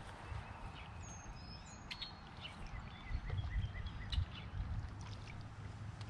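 Birds chirping and calling in short bursts, with a few light knocks and a low steady rumble underneath.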